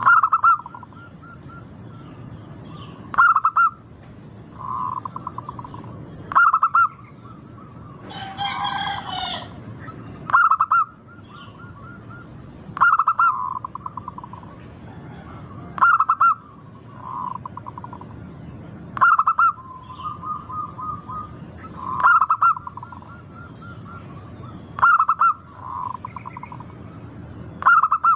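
Zebra dove (local perkutut) singing: loud phrases of quick stuttering coos repeated about every three seconds, with softer rolling coos between them. About eight seconds in, a different, richer call slides down in pitch.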